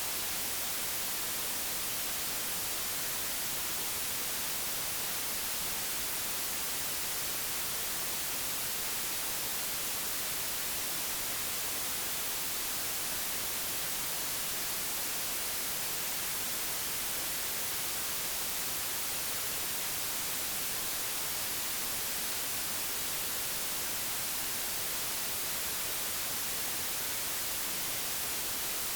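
Steady, unchanging digitally generated white noise: an even hiss with no events or variation.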